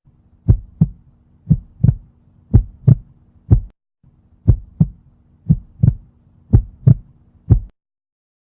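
Heartbeat sound effect: eight double thumps, about one pair a second, over a faint steady hum, stopping short of the end.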